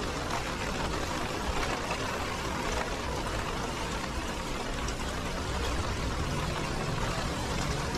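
Steady rain falling on a wet street, an even hiss that does not let up.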